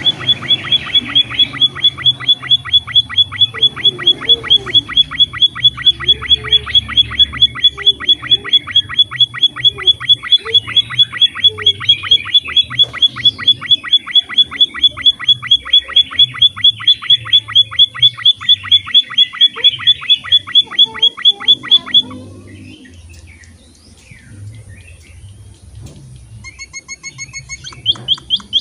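Emprit (munia) bird calling in a fast, steady series of sharp chirps, about four or five a second, which stops abruptly about 22 seconds in. After a few quieter seconds a fresh run of chirps starts again near the end.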